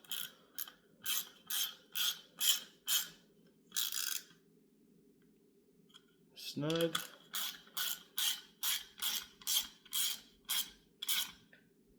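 Hand ratchet driving bolts into a GM HEI distributor, clicking in quick back-and-forth strokes about two a second. There are two runs of strokes with a pause of about two seconds in the middle as the bolts come snug.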